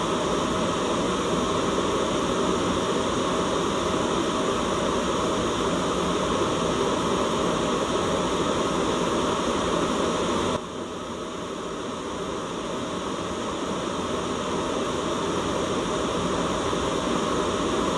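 Steady white-noise hiss. About ten seconds in it drops suddenly in level, then swells back up gradually over the following several seconds.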